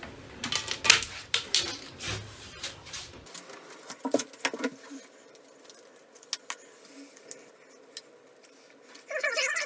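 Hard small objects clicking and clattering as they are handled, in a quick run of knocks for the first few seconds, then scattered single clicks, with a short louder rustling burst near the end.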